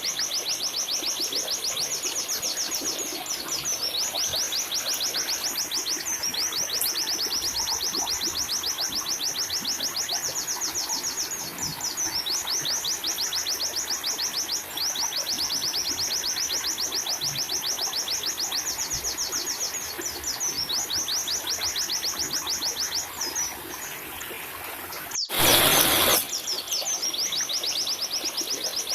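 A white-eye (pleci) singing long, very rapid trills, phrase after phrase, over a steady hiss. Near the end the song breaks off briefly and a short loud burst of noise cuts in before the trilling resumes.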